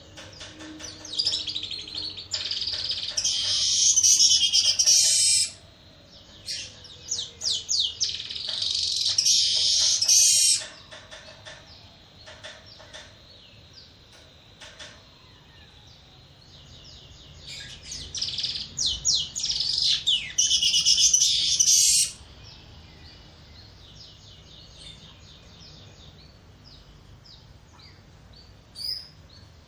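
Weaver bird (manyar, Ploceus) song played as a lure call: three long bursts of rapid, high chattering notes, each building up louder and then stopping abruptly, with faint scattered chirps in the gaps and near the end.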